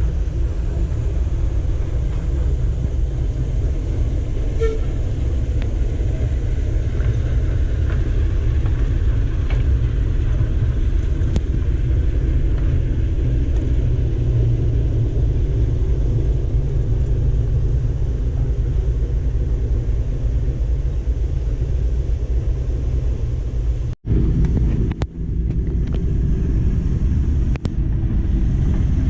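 A steady, loud low rumble with a faint hiss above it, broken by a split-second dropout about 24 seconds in.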